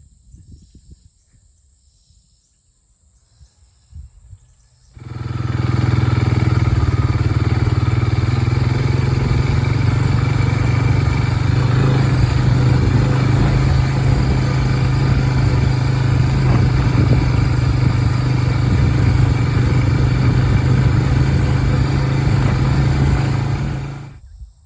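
Engine running steadily at a constant speed, with a strong low hum. It cuts in abruptly about five seconds in and stops suddenly just before the end; before that there are only a few faint bumps.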